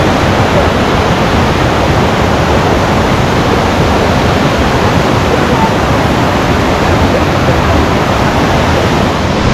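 Waterfall close by: a loud, steady rush of falling water that does not let up.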